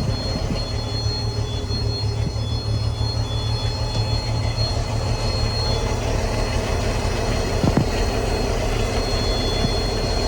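1988 Sea Ray boat motor running steadily on fuel fed from a can, with a high, steady buzzing tone over the engine sound that fades for a few seconds in the middle.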